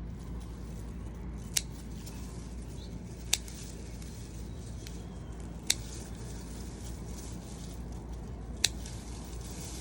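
Four short, sharp clicks spaced one to three seconds apart over a steady low hum.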